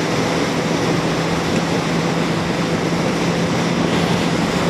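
Wind rush over a riding motorcycle, with the Yamaha XJ750 Seca's inline-four engine droning at a steady pitch while cruising.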